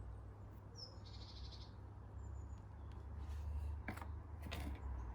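A small bird calling about a second in: a short high chirp running straight into a buzzy trill, with a faint short note a second later. Two sharp clicks near the end, over a steady low rumble.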